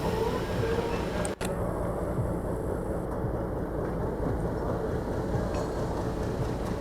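An engine running steadily with dense low mechanical noise, briefly cut off for an instant about a second and a half in.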